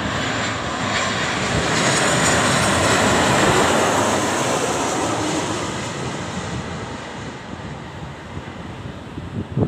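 Jet airliner passing low overhead on landing approach. Its engine noise swells to a peak about three seconds in, with a high whine that dips in pitch as it passes, then slowly fades away.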